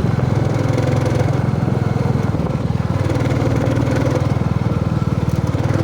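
Royal Enfield motorcycle engine running steadily under way, its exhaust pulsing evenly.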